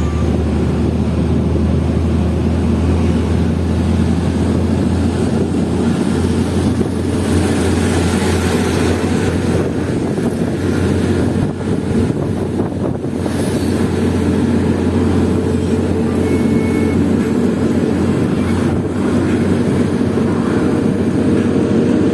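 Hino FL 260 JT truck's six-cylinder diesel engine running steadily under the load of about 33 tons of coal, a deep even drone with road and wind noise.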